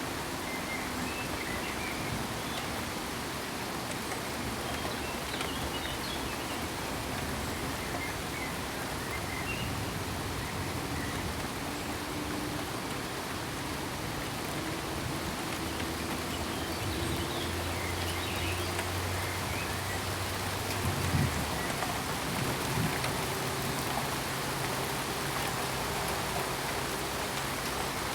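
Steady rain falling with an even hiss, with a faint low hum joining partway through and two brief louder sounds about two-thirds of the way in.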